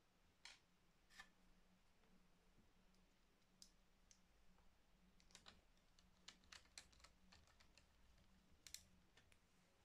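Faint, scattered light clicks and ticks of a screwdriver and small screws on plastic as a laptop's cooling fan is screwed back into place, with a busier run of clicks in the middle.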